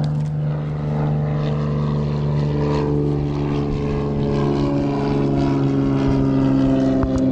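Engine droning steadily in the distance, a held low tone with overtones that slowly drift in pitch.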